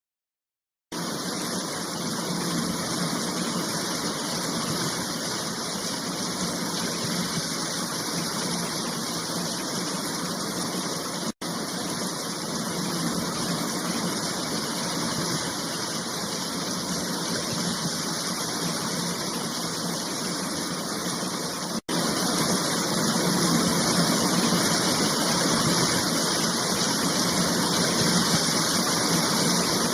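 Steady rushing roar of a waterfall, broken by three abrupt cuts between shots, slightly louder after the last cut.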